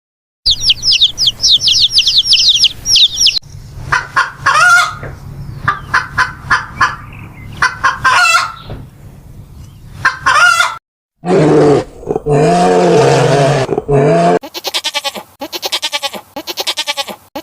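A run of separate animal calls: rapid high-pitched chirping for about three seconds, then chickens clucking and a rooster crowing, followed by a lower wavering call and, near the end, a fast stuttering call.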